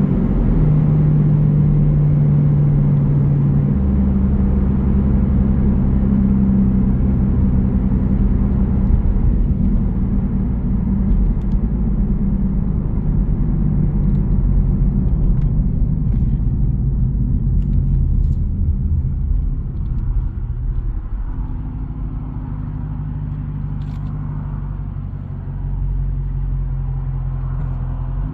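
Jeep Grand Cherokee's 5.7-litre Hemi V8 exhaust rumbling steadily while driving. The engine note steps to a deeper tone about four seconds in and eases off past the middle before picking up again near the end.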